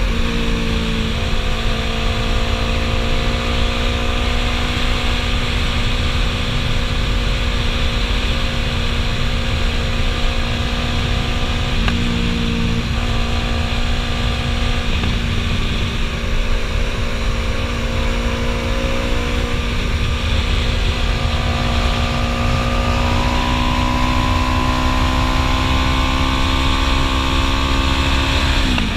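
Yamaha YZF-R3 parallel-twin engine through a Two Brothers Racing S1R full-system exhaust, running under way at fairly steady revs. The pitch changes with a few gear changes, then climbs slowly toward the end before dropping sharply at a shift.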